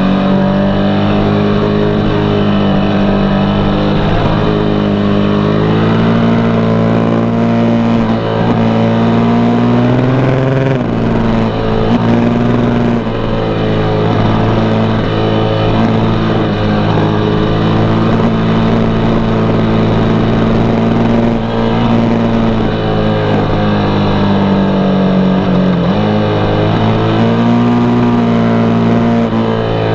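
KTM RC8 sport bike's V-twin engine running under way, its note rising and falling with the throttle, with sudden steps in pitch about eleven seconds in and again near the end.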